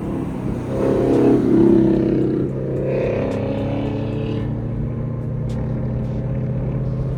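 Lexus RC F's 5.0 V8 running through an exhaust with the muffler and resonator deleted, giving a short swell of revs about a second in and then settling back to a steady idle.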